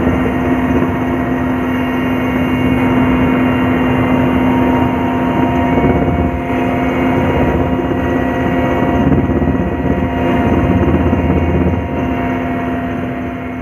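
Multirotor drone's motors and propellers running steadily, a hum with several fixed whining tones over rushing noise.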